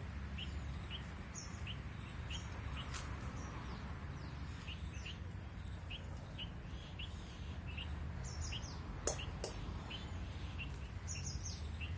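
Small birds chirping: short chirps repeating about twice a second, with higher calls now and then, over a steady low rumble. Two sharp clicks sound about nine seconds in.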